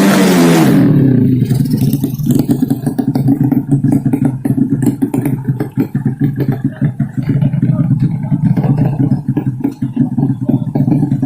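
A high-revving underbone drag motorcycle with a 200cc engine sweeps past, its pitch falling over about a second. A motorcycle engine then runs on with a steady, rough, fluttering note.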